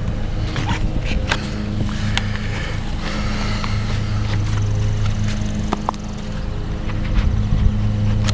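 A vehicle engine idling steadily with a low, even hum, over scattered clicks, taps and scrapes of a plastic pry wedge and an inflatable air wedge being worked into the top of a car door frame.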